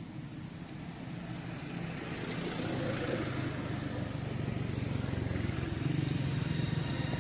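A motor vehicle's engine running, its low hum growing louder from about two seconds in.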